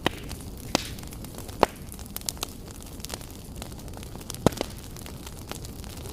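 Fireplace fire burning, a steady low rush with sharp crackles and pops at irregular intervals, the loudest about a second and a half in and again about four and a half seconds in.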